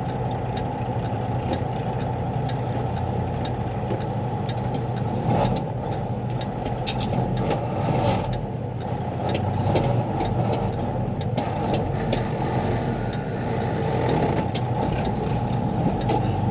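Semi truck's diesel engine and road noise heard from inside the cab while driving slowly, a steady rumble with a few short clicks and knocks.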